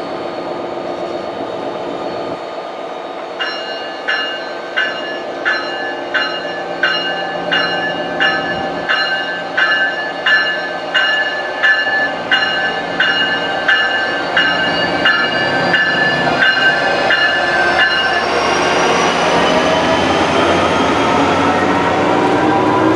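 New Jersey Transit train at the station: a bell rings steadily, about three strikes every two seconds, for some fifteen seconds and then stops, while the diesel locomotive's engine note climbs steadily in pitch as it works up.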